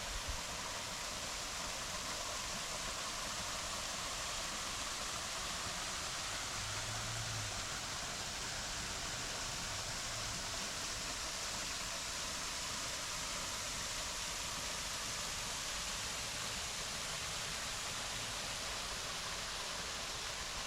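Waterfall: a steady, even rush of falling water, with a brief low bump just after the start.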